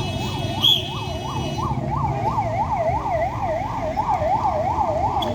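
Siren in a rapid up-and-down yelp, about three to four sweeps a second, with a short high chirp just under a second in.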